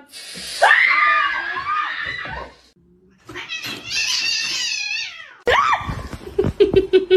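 Domestic cat yowling: two long, drawn-out caterwauling calls that bend in pitch, followed about five seconds in by a burst of sharp knocks.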